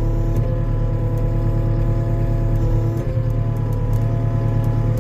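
Skid steer engine running steadily at a constant speed, with a few faint clicks.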